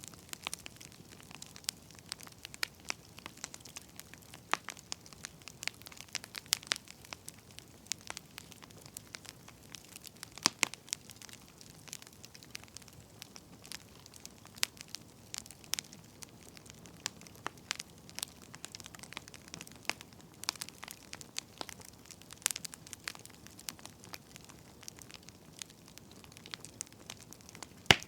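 Wood fire crackling: a soft steady hiss with frequent irregular pops and snaps, a few sharper ones among them.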